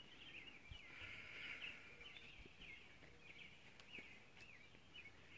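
Faint birdsong: many quick chirps and warbling notes that carry on steadily, busiest about a second in.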